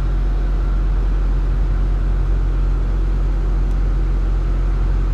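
Heavy diesel truck engine idling, a low, even drone that holds steady throughout.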